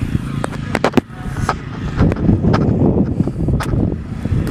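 A vehicle engine running steadily at idle, with a few sharp clicks about a second in and a rougher, louder rumble in the middle.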